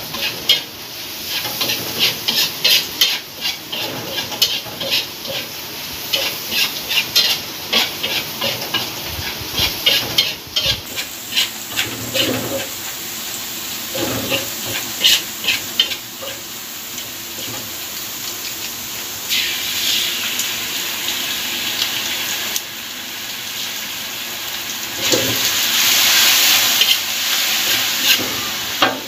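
Ground spice paste sizzling in hot oil in a steel wok while a metal spatula stirs it, scraping and tapping against the pan. The spatula clicks come thick and fast through the first half; later the sizzle is steadier and grows louder near the end.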